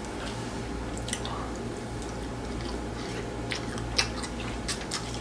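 Close-miked chewing of grilled chicken: scattered wet mouth clicks and smacks, over a steady low hum.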